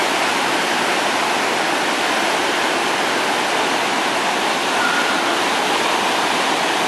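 Floodwater from a typhoon-swollen river rushing steadily through a dam's fully opened spillway gates, a loud, even roar of water.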